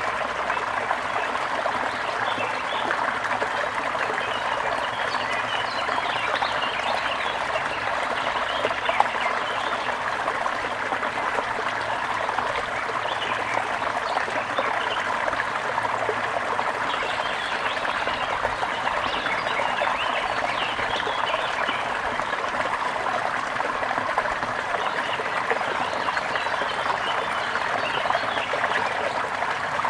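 Steadily trickling stream water, with small birds chirping through it.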